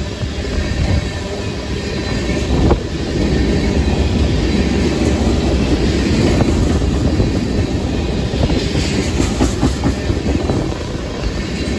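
Freight train tank cars rolling past close by: steel wheels clattering over the rail joints above a steady rumble, with a sharp knock about three seconds in.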